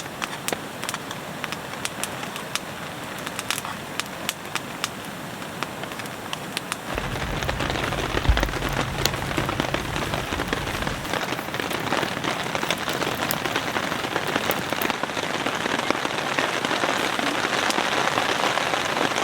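Rain falling, with many close drops tapping sharply on a surface. It grows heavier about seven seconds in, with a low rumble lasting a few seconds.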